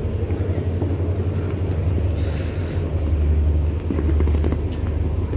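Passenger train running: a steady low rumble with faint scattered rattling ticks.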